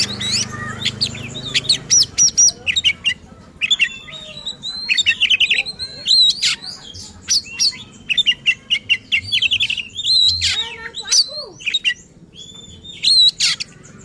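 Oriental magpie-robin (kacer) singing hard and without pause: a rapid jumble of sharp whistles, chirps and short, fast trill runs, mixing in fill-in phrases borrowed from other birds' songs.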